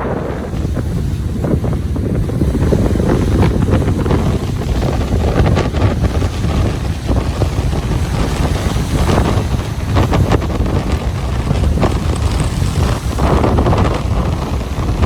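Ocean waves washing on a beach, with strong wind buffeting the microphone as a steady low rumble and scattered crackles.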